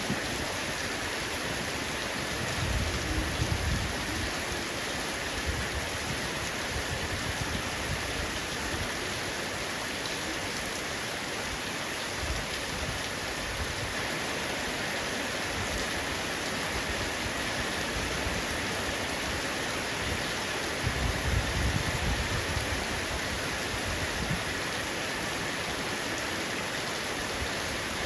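Heavy rain falling steadily on a roof as an even hiss, with a low rumble swelling up twice, about three seconds in and again a little past twenty seconds.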